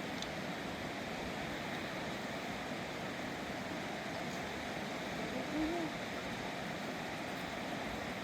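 A river rushing steadily, with a brief short pitched sound a little past halfway through.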